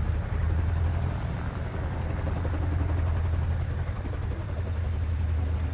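Boeing CH-47 Chinook tandem-rotor helicopter running, a steady low drone of its twin rotors and turbine engines.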